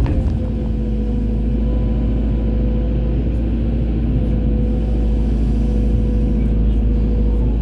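Hydraulic excavator's diesel engine running steadily under load, a constant low rumble with a steady tone held over it.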